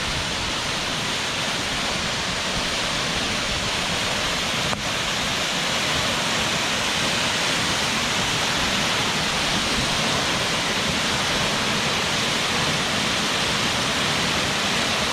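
Waterfall pouring over rocks: a loud, steady rush of falling water, with one brief click about five seconds in.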